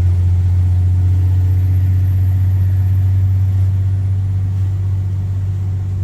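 Straight-piped Cummins C8.3 inline-six diesel of a 1995 Carpenter school bus running steadily with a loud, throaty, low exhaust drone. It eases off a little in the last couple of seconds.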